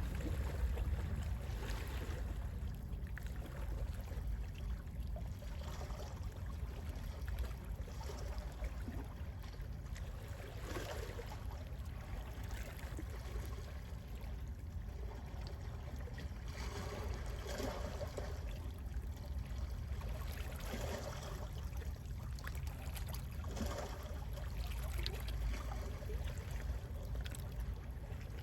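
Gentle sea waves lapping and washing in small, irregular splashes, over a steady low rumble.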